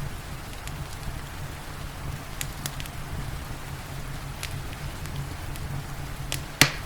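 Wood fire crackling with scattered sharp pops over steady rain. One loud pop comes near the end.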